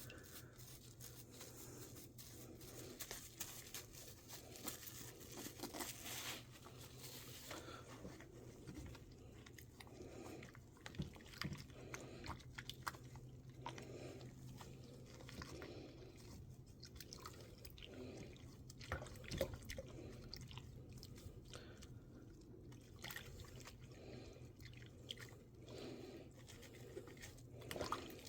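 Faint handling sounds of a doll being washed in a bowl of soapy water: scattered small rubs, clicks and light water sounds over a steady low hum.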